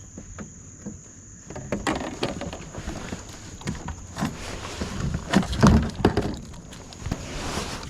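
Irregular knocks, clunks and rattles of gear being handled against a kayak's hull, with the loudest cluster of thumps a little past the middle.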